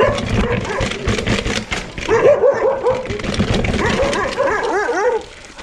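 A dog barking and yipping in a quick run of short, rising-and-falling calls from about two seconds in, over a clatter of knocks.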